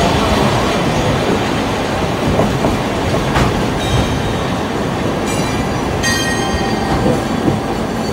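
Open trolley car of a diesel-hauled train running along, a steady rumble of wheels on rail with the TR209 bogies knocking over rail joints. Thin, high, steady tones join in over the last few seconds.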